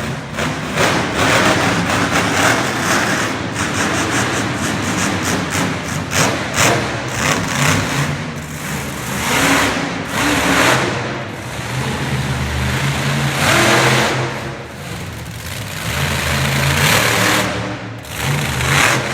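Monster truck engine revving hard in repeated surges, its pitch rising and falling as the truck drives at the track to pop up onto two wheels.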